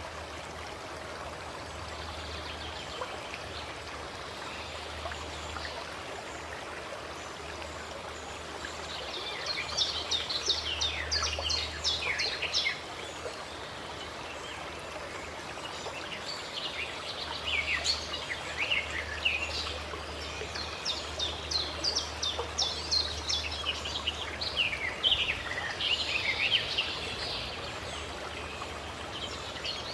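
Water from a fountain running steadily, with songbirds chirping and trilling over it in quick bursts, busiest about a third of the way in and again through most of the second half.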